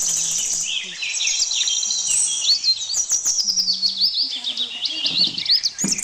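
Several birds chirping and whistling in quick, repeated short notes that rise and fall. A high steady buzz stops about half a second in.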